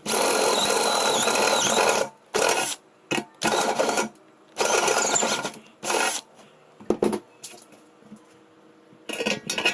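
Electric drill with a step drill bit boring a 14 mm hole in a cake tray. It runs in bursts: one of about two seconds, several short ones after it, and a final burst near the end.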